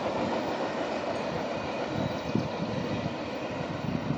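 A passing train rumbling on the rails as it moves away down the track, a steady rumble with a few irregular low thumps.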